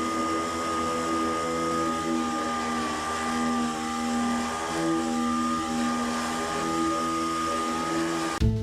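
Power sander running steadily on a fender's body filler, its motor whine dipping slightly in pitch under load. Guitar music cuts in near the end.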